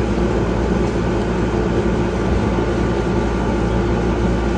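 Steady mechanical hum of an air conditioner running, a constant drone with a low even tone and no change.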